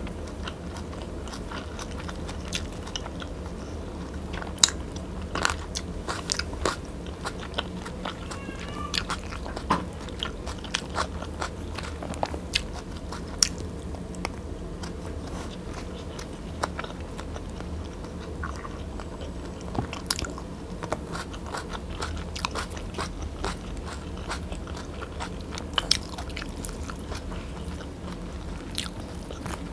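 Close-miked chewing and biting of soft braised pork humba and rice, eaten by hand, with many sharp mouth clicks scattered throughout.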